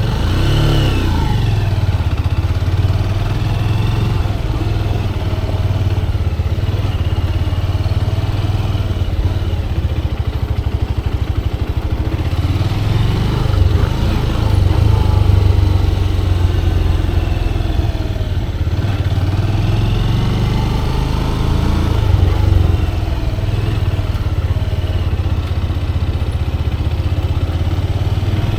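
Motorcycle engine running steadily while being ridden, its revs rising and falling several times.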